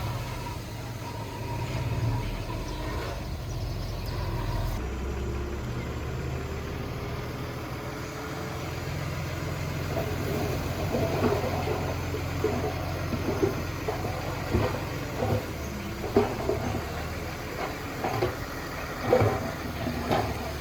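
Diesel engine of heavy earthmoving machinery running steadily. In the second half come a series of irregular metallic knocks and clanks.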